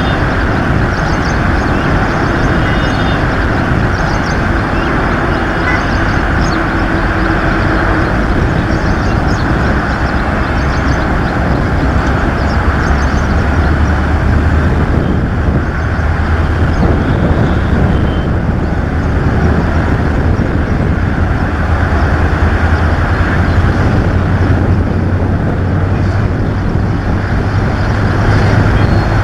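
EMD WDP 4B diesel locomotive's two-stroke 16-cylinder engine under load as the train accelerates, a loud steady drone mixed with running noise. The low engine note strengthens about halfway through and rises a little near the end as it works harder.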